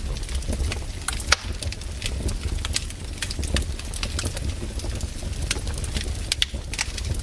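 Wood campfire crackling, with irregular sharp pops and snaps and one louder pop about a second in, over a low rumble.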